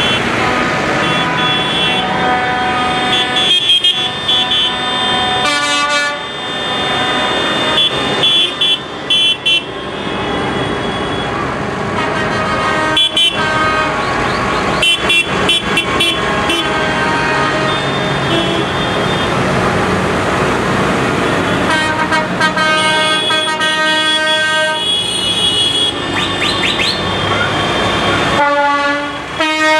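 Tractor horns tooting again and again, sustained blasts that change pitch every few seconds, over the steady noise of running tractor engines.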